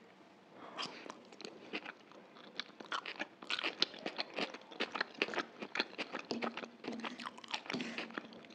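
Close-up chewing of a mouthful of chicken chow mein, a dense run of crunchy mouth clicks that picks up about three seconds in.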